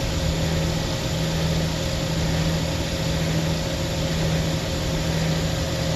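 Refrigerant recovery machine running with a steady hum, pulling the refrigerant out of the walk-in freezer's system before the failed compressor is replaced.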